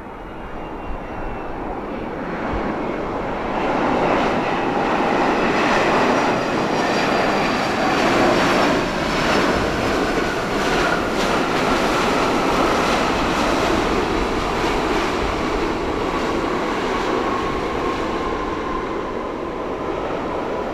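Boeing 767 jet engines running loud as the airliner lands past, a rushing roar with a high whine that slowly falls in pitch. It swells over the first few seconds and then holds.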